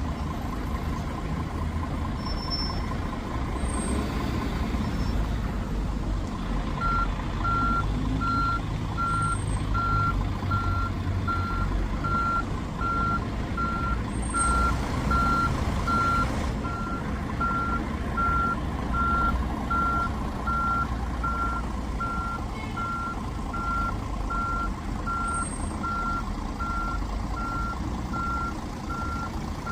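A large vehicle's reversing alarm, a single-pitched beep repeating evenly, starts about seven seconds in. It sounds over a steady low engine rumble, with a brief hiss about fifteen seconds in.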